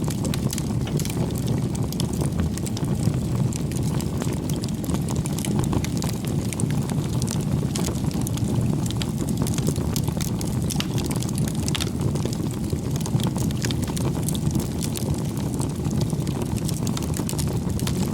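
Bonfire burning: a steady low rush of flame with many scattered sharp crackles and pops.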